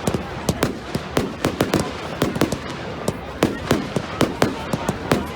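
Fireworks going off in quick succession, about four sharp bangs a second, some of them crackling.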